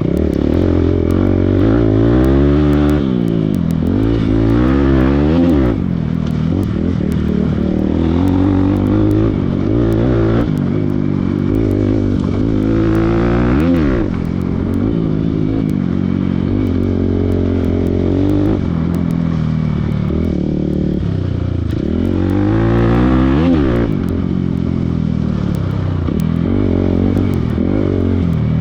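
Motorcycle engine under way on an off-road trail, its pitch repeatedly rising and falling as the throttle is opened and eased off.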